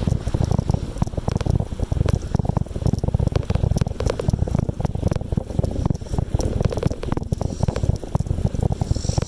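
Riding noise from a bicycle on the move: a low wind rumble on the microphone with many small rattles and clicks from the bike.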